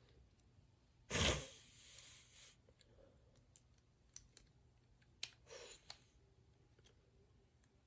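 Small plastic toy parts being handled and fitted together by hand: a short scraping rustle about a second in, then scattered light clicks and a brief rustle.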